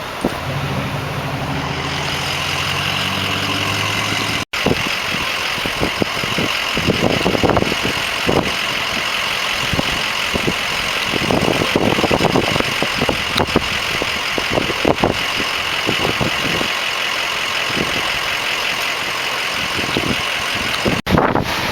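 Bell 412 helicopter's twin turbine engines and rotor running: first a steady low drone, then, after a sudden break about four seconds in, a steady high turbine whine over irregular low thumping.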